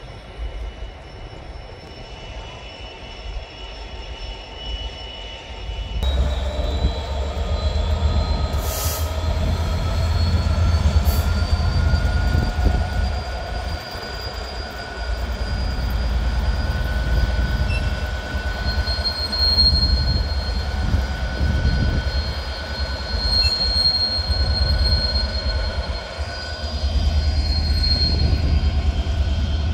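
A passenger train moving at a station platform: a low rumble with thin, steady high-pitched wheel squeal drawn out over it. The rumble grows much louder about six seconds in, and two short high hisses come a couple of seconds apart soon after.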